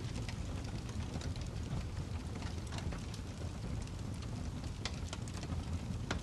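Wood fire burning in a fireplace: a steady low rumble of flames with frequent small crackles and a few louder pops near the end.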